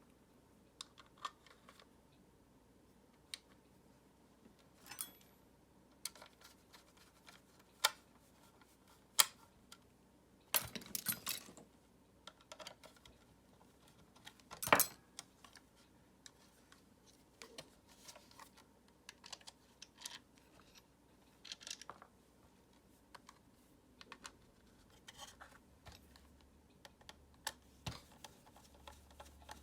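Irregular clicks, taps and knocks of plastic parts and small tools being handled while a Dyson vacuum cleaner is worked on, with a few sharper snaps and a short flurry of rattling clicks about eleven seconds in.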